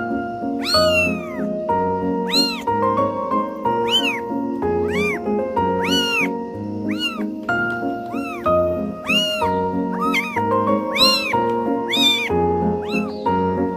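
Kitten meowing over and over, about one short rising-and-falling meow a second, over background music of steady held notes.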